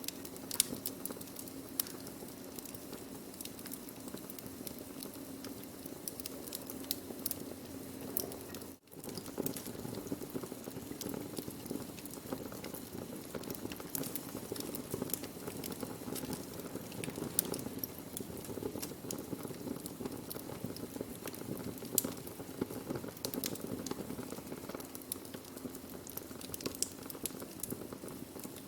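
Burning wood fire with frequent sharp crackles and pops over a steady hiss. The sound drops out for an instant about nine seconds in.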